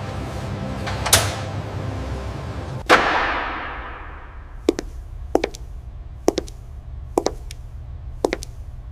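Sound-designed industrial ambience over a low steady hum: a short swish about a second in, then a loud metallic hit whose ringing tail fades away, followed by sharp clicking knocks about once a second.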